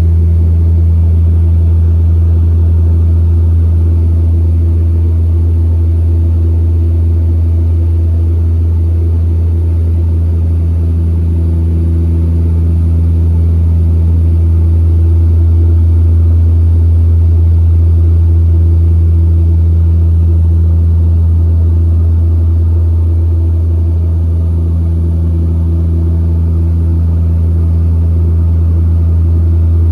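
Twin Otter's two Pratt & Whitney PT6A turboprop engines and propellers heard from inside the cabin: a loud, steady low drone at constant power, with a few higher hum tones that slowly fade and return.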